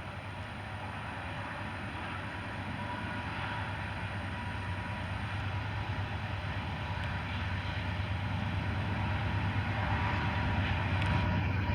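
Train drawing nearer: a steady low rumble and hum that grows gradually louder.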